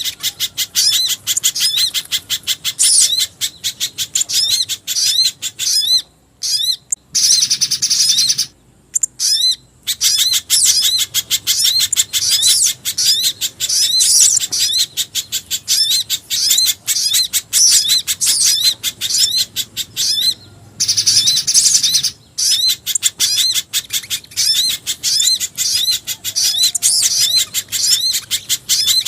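Bird-lure recording mixing the calls of pijantung gunung (a spiderhunter) and jingjing batu: a fast, unbroken stream of sharp, high chirps, many a second. It stops briefly a few times, about six, nine and twenty-one seconds in.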